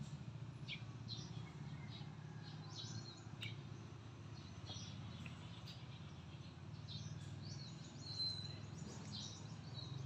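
Small birds chirping and calling in short, scattered notes, with a few longer whistled calls, over a steady low background hum.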